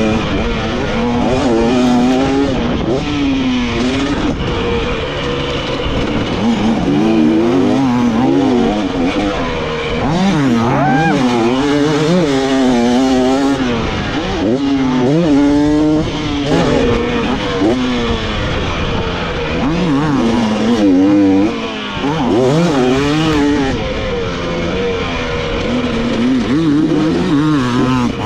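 Dirt bike engine revving hard and backing off again and again, its pitch climbing and dropping through the gears as it laps a motocross track.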